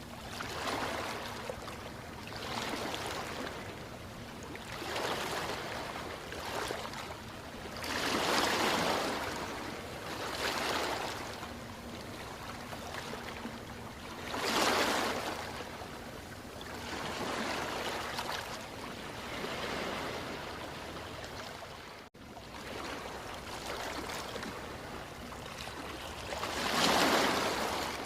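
Ocean waves washing in, in swells of noise every two seconds or so. Bigger waves break about eight, fifteen and twenty-seven seconds in. There is a brief drop-out about twenty-two seconds in.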